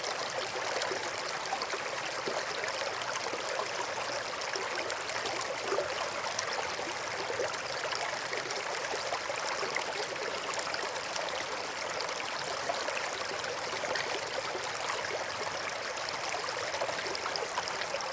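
A brook flowing steadily, an even rush of running water.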